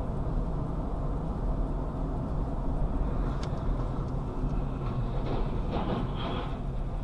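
Steady low rumble of a vehicle on the move, with a few short clicks and knocks in the second half.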